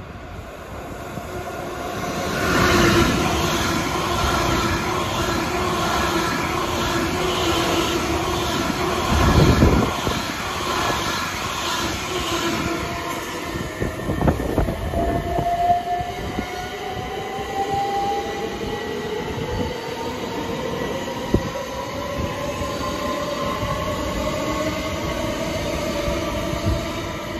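Electric passenger train running through the station, with wheel clatter and a steady hum and a loud low thump about a third of the way in. In the second half a motor whine rises slowly in pitch as a train pulls away and picks up speed.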